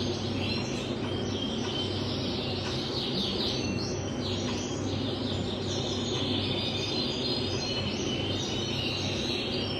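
Male red mosaic canary singing, a continuous song of fast repeated trills and rolls, over a steady low hum.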